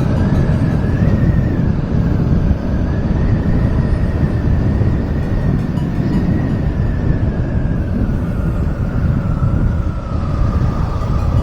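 Motorcycle under way on the road: engine running steadily under a heavy low rumble of wind and road noise, with a high whine that climbs slightly and then drops back near the end.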